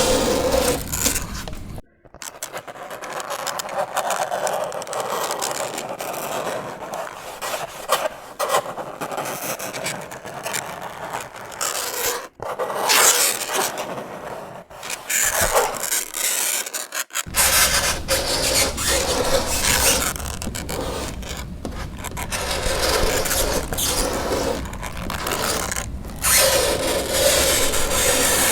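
Fingernails scraping across a chalkboard in continuous rasping strokes, broken by a few brief pauses. A squealing tone rises out of the scrape at the start and again near the end.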